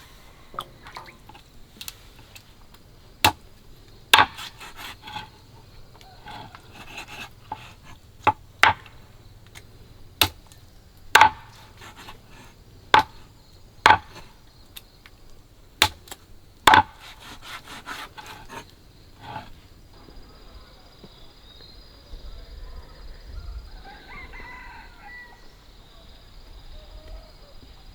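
A dozen or so sharp knocks at irregular intervals, a few of them followed by a quick rattle, through the first two-thirds; after that only faint scattered sounds.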